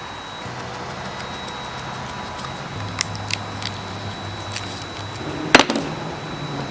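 Several short sharp clicks, the loudest about five and a half seconds in, over a low steady hum.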